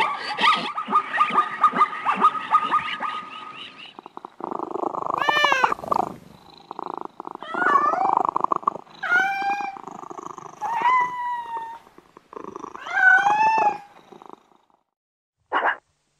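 Domestic cat meowing about five times, each a long drawn-out meow that bends in pitch. Before the meows, in the first four seconds, there is a rapid run of repeated barking calls, likely the zebras, and a short sharp call comes near the end.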